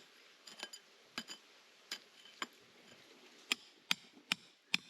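A metal tool striking hard rock, a series of sharp clinking blows. They come sparse and uneven at first, then louder and steady at about two or three a second in the last second and a half.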